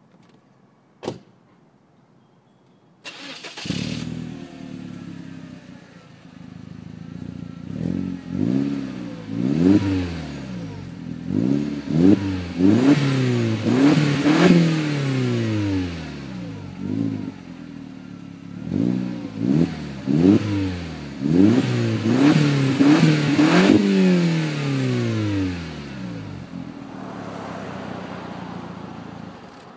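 Exhaust of a 1.8-litre turbocharged four-cylinder engine through a 2.5-inch Magnaflow cat-back, starting up about three seconds in and idling. It is then revved in a series of quick blips, the pitch rising and falling with each, before settling back to idle near the end. There is a single short click about a second in.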